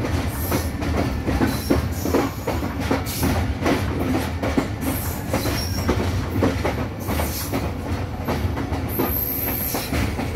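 Passenger train coach running on the track, heard from an open door: a steady rumble of wheels on rail with frequent irregular clicks and clanks as the wheels pass over rail joints and points. A brief thin high squeal comes near the end.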